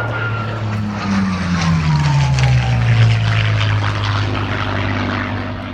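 Propeller aircraft flying past, its engine drone dropping steadily in pitch as it goes by.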